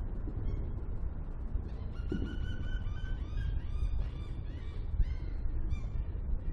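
A bird calling: one held note, then a quick series of short arched notes, about three a second, fading near the end. A steady low rumble lies underneath.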